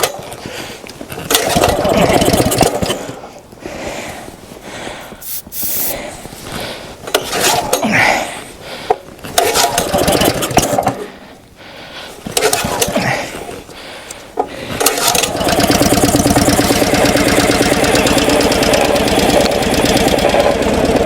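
Log splitter's small gasoline engine being cold-started in freezing weather, hard to start because its oil is stiff. It is cranked in several short bursts, then catches about fifteen seconds in and keeps running.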